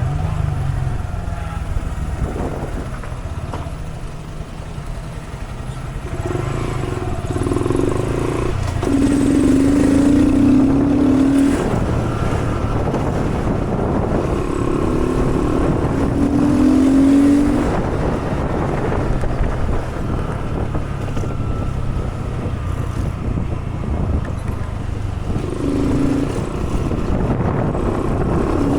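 Honda Grom mini bike's small single-cylinder engine running as it is ridden, its pitch and loudness shifting with the throttle and swelling about ten seconds in and again around seventeen seconds.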